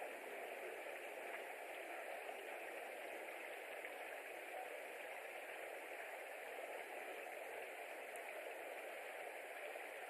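Steady, even hiss of outdoor background noise picked up by a nest-camera microphone, with no bird calls standing out.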